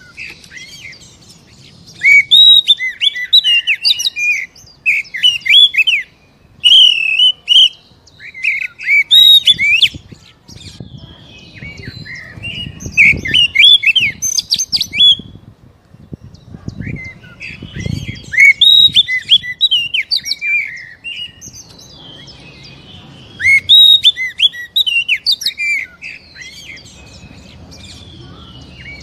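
Oriental magpie-robin (kacer) singing in loud bursts of rapid, varied whistles and harsh chattering notes, with short pauses between phrases. This is the energetic full song that keepers play to stir a caged magpie-robin into singing.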